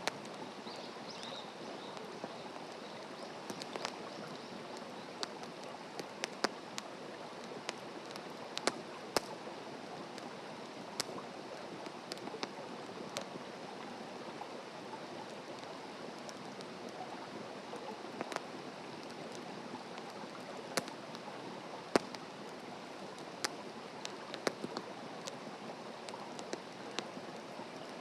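Wood fire burning in a fire stand: a steady hiss with frequent, irregular sharp crackles and pops, a few louder snaps among them.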